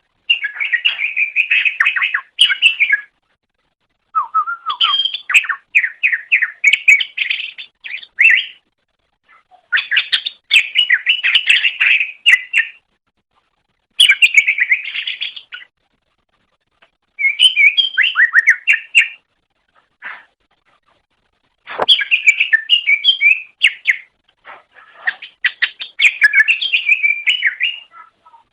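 Cucak ijo (green leafbird) singing: about nine loud, fast phrases of chirps and whistled notes, each lasting two or three seconds, with brief pauses between them. This is a master song used to train other songbirds.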